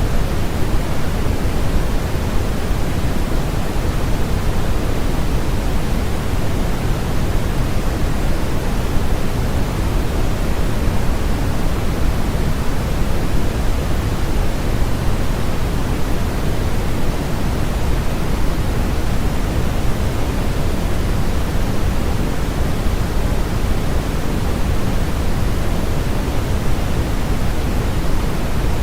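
Steady generated sleep noise: a loud, unbroken, even hiss that is heavier in the lows than the highs, closer to pink noise than to true white noise.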